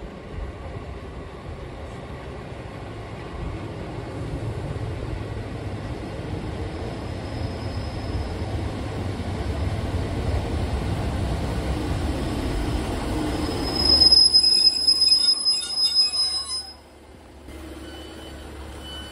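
Class 150 Sprinter diesel multiple unit pulling into a station, its engine and wheel rumble growing louder, then a loud high brake squeal for about three seconds as it comes to a stop. A few short high beeps follow near the end.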